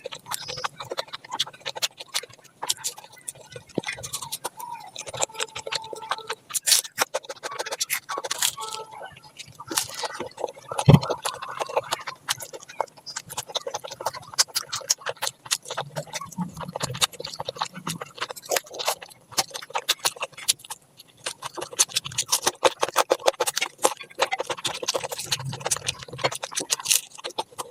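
Close-miked eating: wet chewing and smacking mouth sounds, a dense run of short clicks with a few brief low hums, one sharper smack about eleven seconds in.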